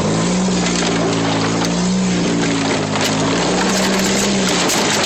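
A car's engine, heard from inside the cabin as the car crawls along a rough woodland track. Its pitch rises and falls several times under a loud, steady noise.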